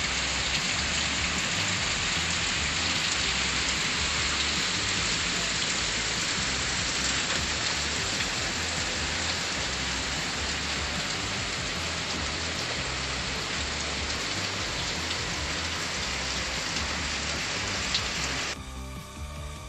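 Steady hiss of heavy rain falling on a roof, with low irregular thuds. It cuts off abruptly near the end.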